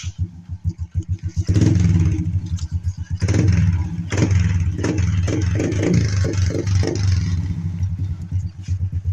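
Motorcycle with an aftermarket bullet-type exhaust pipe idling with even, distinct exhaust pulses, then blipped up in several revs with popping before it settles back to idle near the end.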